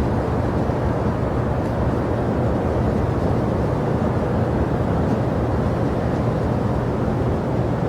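Steady low rumble of airliner jet engines.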